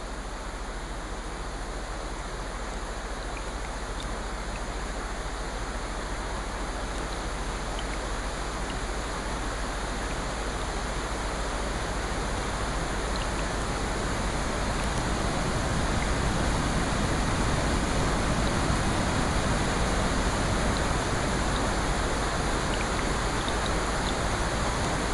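Steady rain, a dense even hiss with a few faint scattered drips, growing gradually louder over the first fifteen seconds or so.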